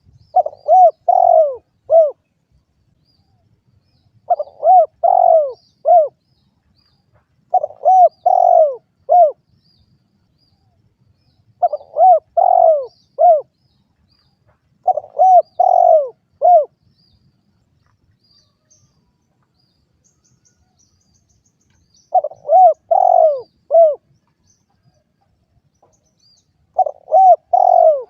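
Spotted dove (derkuku) calling: seven phrases of four or five short, arched coos each, with a pause of a few seconds between phrases and a longer gap midway.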